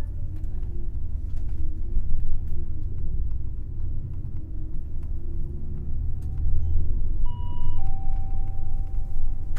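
Cabin noise of an Airport Limousine coach under way: a steady low engine and road rumble. About seven seconds in, a two-note electronic chime sounds, a short higher note followed by a longer, lower one.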